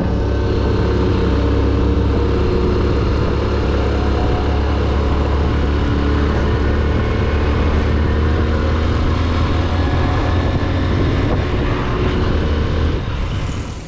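Motorcycle running while riding, a steady loud drone with heavy low end that cuts off sharply near the end.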